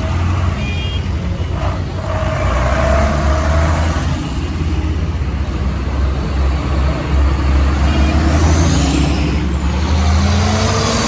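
Tractor engines running steadily, with one engine's note rising near the end as it picks up speed.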